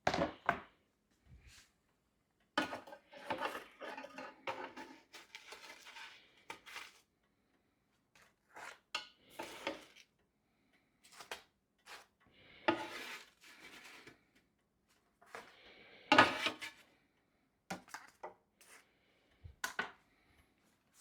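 A spatula scraping and clinking against a pan and dishes as pieces of garlic bread are lifted onto a board, in scattered bursts of clatter with pauses between, the loudest about sixteen seconds in.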